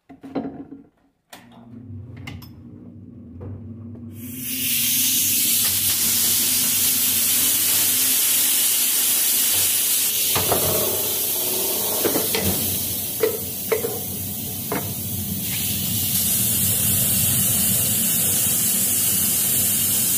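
Varnish being sprayed onto a cleaned alternator end cover: a loud, steady hiss that starts about four seconds in, over a low hum, with a few light knocks partway through. A few clicks and knocks come before the spraying starts.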